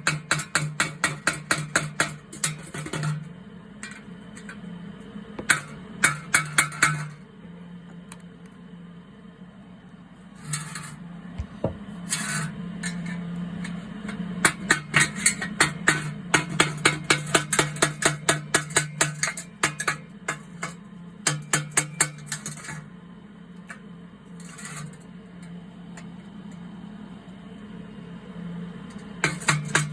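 Hammer tapping a flathead screwdriver into a steel exhaust downpipe to notch small riffles in a welded-in howler pipe. The sharp metal strikes come in quick runs of about five a second, broken by short pauses, over a steady low hum.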